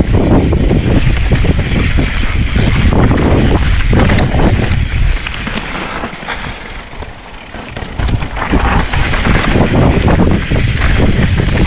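Mountain bike descending a rough trail: wind buffeting the action camera's microphone over tyre noise on dirt and rock, with the bike rattling and knocking. It eases off for a couple of seconds in the middle, then picks up again.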